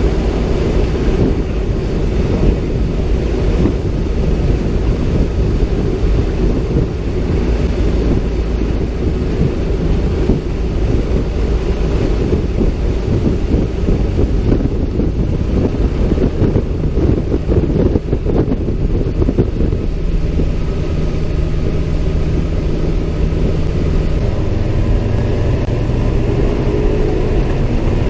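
CAC Winjeel's Pratt & Whitney R-985 radial engine and propeller running steadily, heard as a loud low rumble with wind buffeting the microphone. A steady low engine tone becomes clearer in the last several seconds.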